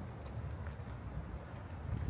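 Footsteps of someone walking, over a steady low rumble.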